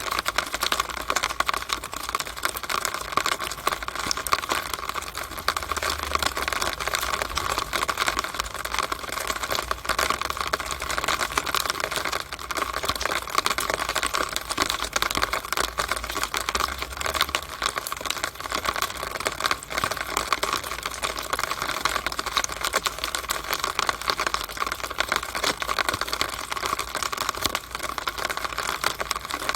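Rainwater running down a downspout (storm drain pipe) in the rain, a steady, dense patter and crackle of small splashes and drips.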